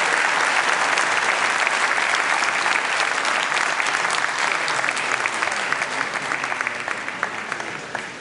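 Audience applauding, a dense patter of many hands clapping that dies away over the last two seconds or so.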